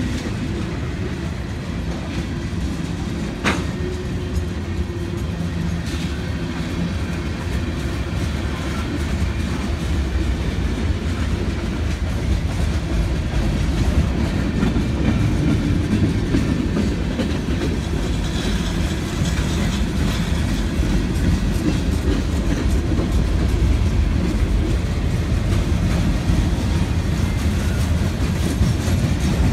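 Cars of a Norfolk Southern manifest freight train rolling past: hoppers, tank cars and boxcars. A steady low rumble of steel wheels on the rails with a faint clickety-clack, and one sharp metallic click about three and a half seconds in.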